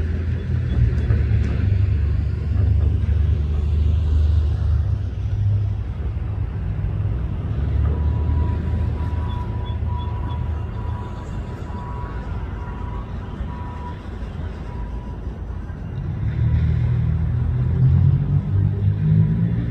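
Diesel locomotives of a freight train rumbling low and heavy as the train passes. The rumble eases in the middle and swells again near the end, and a faint steady whine comes in about eight seconds in and lasts several seconds.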